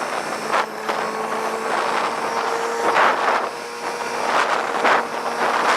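A Kawasaki ZX-6R 636 sport bike's inline-four, fitted with a louder slip-on exhaust, running at road speed under a steady rush of wind noise. The engine note holds fairly steady and dips slightly about halfway through.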